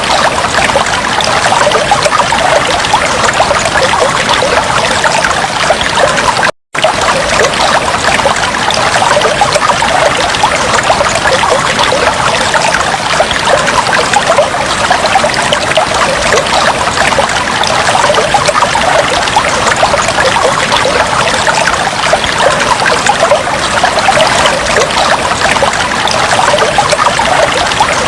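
Fish tank water trickling steadily, a dense, even splashing hiss that breaks off for an instant about six and a half seconds in.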